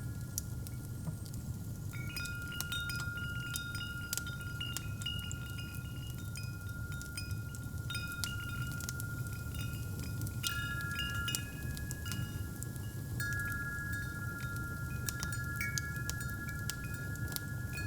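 Wind chimes ringing, several overlapping sustained tones struck at irregular moments, over the steady low rumble and scattered crackles of a fireplace fire.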